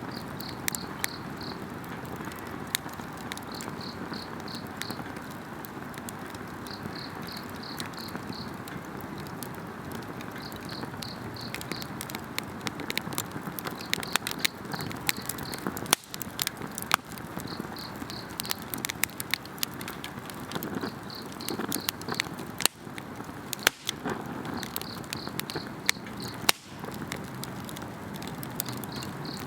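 Wood campfire burning, with frequent sharp crackles and pops over a steady hiss of flames. An insect chirps in short, rapid pulsed trills that repeat every few seconds.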